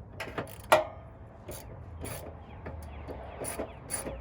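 Hand tools working on the exhaust hanger fasteners under a car: a run of irregular clicks and scrapes, with one sharp metallic knock about three-quarters of a second in.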